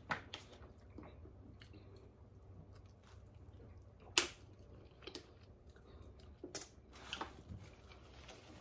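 Quiet eating at a table: chewing of barbecue, with a few sharp clicks of tableware, the loudest about four seconds in.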